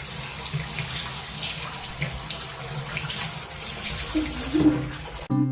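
Bathtub tap running, water pouring steadily into the tub, with a brief louder sound about four and a half seconds in. Plucked-string music cuts in just before the end.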